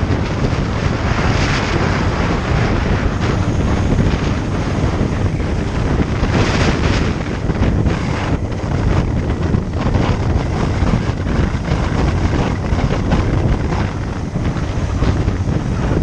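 Wind rushing over the microphone of a moving motorcycle, with vehicle noise underneath: a steady loud rush that swells a couple of times.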